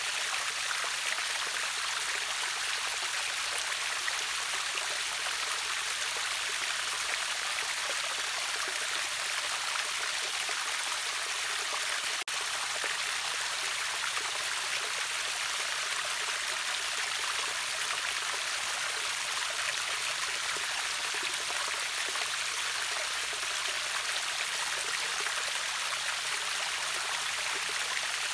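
River waterfall, water rushing and splashing in a steady, even hiss, mostly high-pitched with little low rumble. There is one very brief dropout about twelve seconds in.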